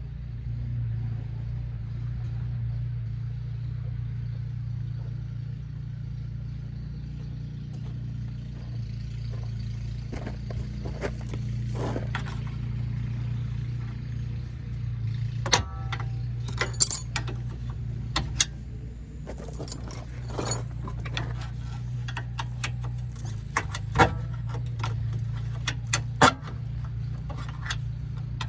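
Metal tools and suspension parts clinking and knocking as a bent control arm is worked out of a car's front suspension, in scattered sharp clinks that grow more frequent in the second half. A steady low hum runs underneath.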